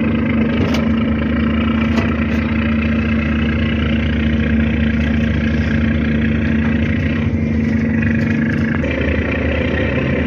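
A ship's diesel engine running steadily at a constant speed, a low droning hum, with a slight change in its tone near the end.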